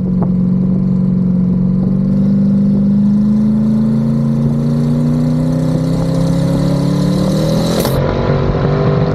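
Twin-turbo LS V8 of a Pontiac G8 accelerating hard under about 17 psi of boost, its note climbing steadily for about eight seconds, then a brief rush of noise near the end as the note drops. This is a test pull to check for the misfire the engine has under boost.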